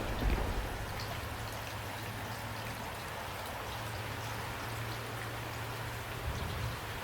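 Steady rain with scattered single drops ticking, as the last of a thunder rumble dies away in the first second.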